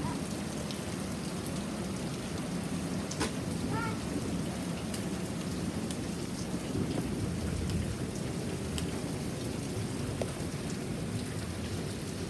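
Pouring rain: a steady wash of noise with scattered sharp drips.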